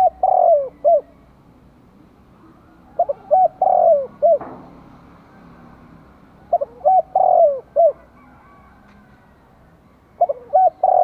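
Spotted dove cooing, a decoy bird's call: phrases of several hooting notes that repeat about every three and a half seconds, one already under way at the start and three more following.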